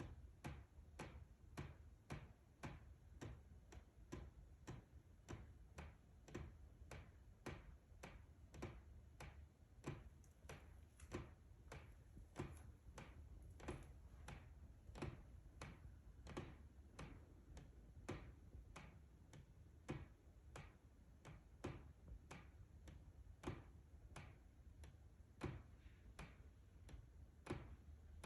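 Faint, steady ticking from inside a house wall, about two sharp clicks a second, keeping on without a break; its cause is not yet known.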